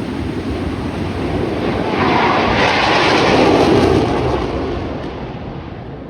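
A US Navy Blue Angels F/A-18 Super Hornet jet flying past, its roar building to a peak about two seconds in and fading away near the end.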